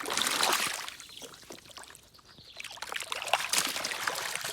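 Water pouring and splashing over a plastic toy as it is washed, in two spells: one through about the first second, then again from about two and a half seconds in.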